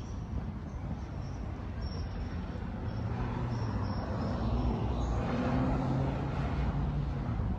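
City street traffic with a motor vehicle passing close by; its engine hum builds from a few seconds in, is loudest about two thirds of the way through, then eases.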